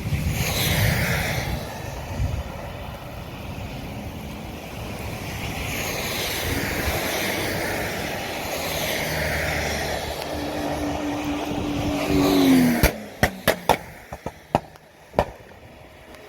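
Wind and rain rushing over the microphone in slow swells, with a vehicle engine under it whose note rises just before the noise cuts off abruptly. A handful of sharp knocks follow in the last few seconds.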